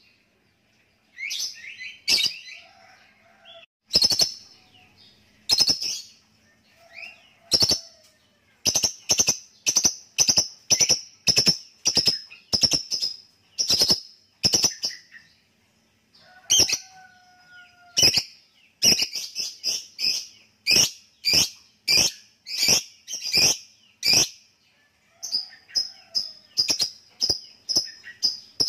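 Lovebird calling with sharp, high chirps: scattered single notes at first, then long runs at about two a second, the bird's long 'ngekek' chatter.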